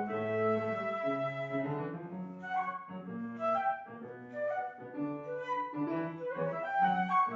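Flute playing a classical melody in a run of sustained and moving notes, over lower accompanying notes, likely piano.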